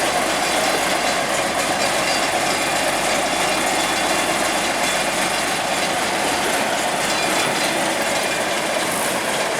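Heavy diesel farm machinery running loudly and steadily, a dense rattling mechanical noise that keeps an even pace.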